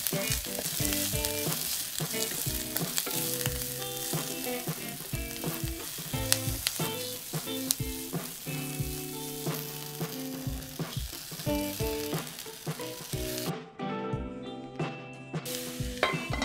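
Onions, garlic and cherry tomatoes sizzling in olive oil in a pan on medium-high heat, with a wooden spatula scraping and clicking against the pan as the vegetables are stirred and tossed. The sizzle cuts out for about two seconds near the end, then comes back.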